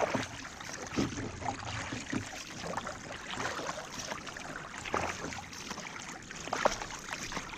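Canoe paddles dipping into and pulling through calm lake water, with water trickling off the blades; a splashy stroke every second or two.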